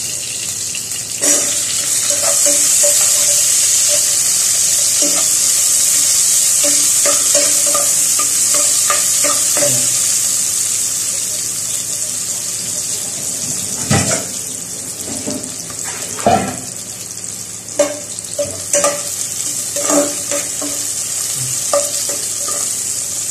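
Garlic and chopped onions sizzling in hot cooking oil in a nonstick pot; the sizzle jumps about a second in as the onions hit the oil, then eases after about ten seconds. A metal spoon stirs and knocks against the pot now and then, most sharply in the second half.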